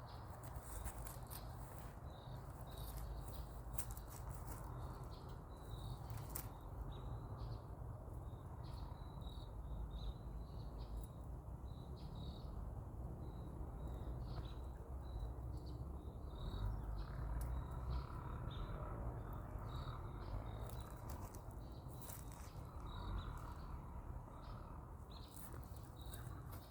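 Outdoor ambience: short high chirps repeat at an uneven pace throughout, over a steady low rumble.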